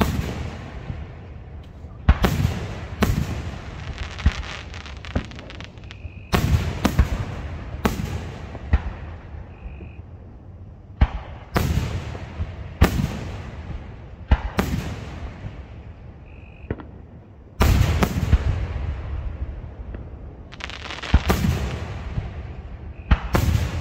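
Aerial fireworks display: a dozen or more shell bursts, each a sharp bang trailing off in a rolling rumble, with quick crackling pops in between. The bursts come thickest in the second half.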